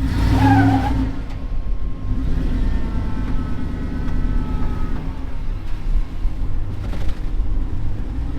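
Truck engine running steadily under load while towing a stuck Jeep out on a strap, a low drone with a faint whine partway through.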